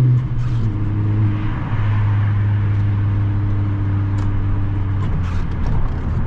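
Honda Civic Si's turbocharged four-cylinder engine running at steady cruising revs, heard from inside the cabin. Its drone steps down in pitch within the first two seconds, then holds steady.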